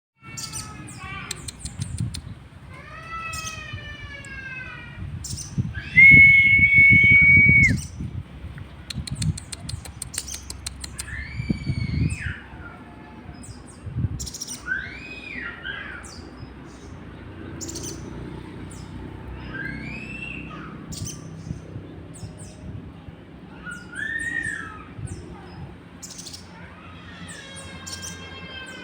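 Sogon songbird calling: runs of falling whistled notes, one long steady whistle about six seconds in that is the loudest note, then short arched calls every couple of seconds, over a low background rumble.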